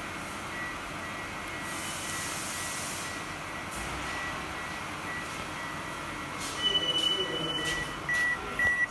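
Steady vehicle running noise with a thin high electronic tone over it, which in the last couple of seconds breaks into quick regular beeps, about two or three a second.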